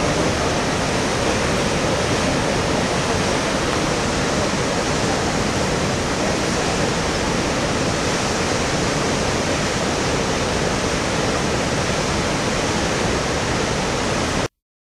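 Steady rushing water, an even roar with no breaks, that cuts off suddenly near the end.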